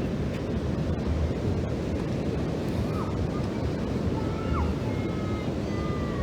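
Steady rush of ocean surf and flowing water, with wind on the microphone. In the second half, several faint short whistled bird calls sound over it.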